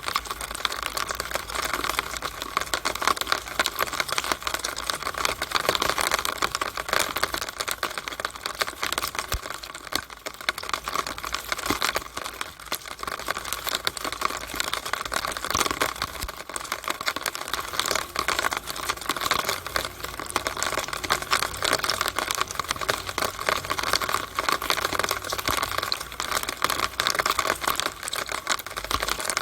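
Rainwater coming down a downspout: a dense, irregular patter of drops and splashes striking the pipe.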